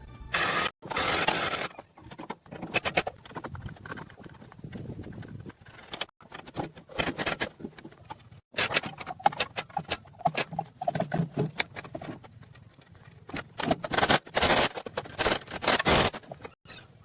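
Irregular bursts of scraping and clattering, with many sharp clicks between longer noisy stretches.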